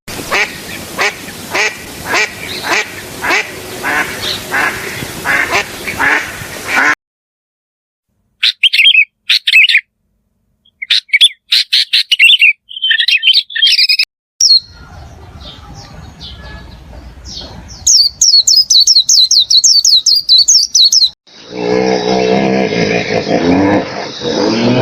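Separate animal clips in turn: a duck quacking steadily about twice a second for roughly seven seconds, then short high bird chirps and a fast high chirping trill. Near the end a loud, steady, low pitched drone takes over.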